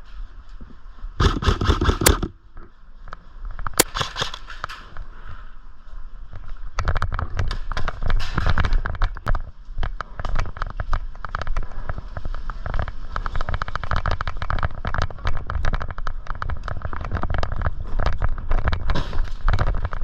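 Airsoft gunfire: rapid clicking shots. There are two short bursts in the first few seconds, then near-continuous firing and clatter from about seven seconds on.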